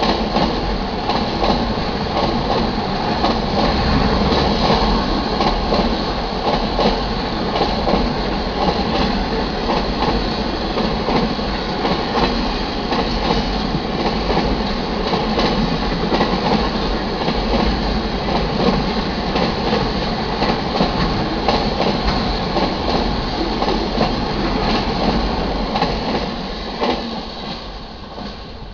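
Freight train of autorack (auto carrier) cars passing close by, a steady rumble with the clickety-clack of wheels over the rail joints. It fades out near the end as the last car goes by.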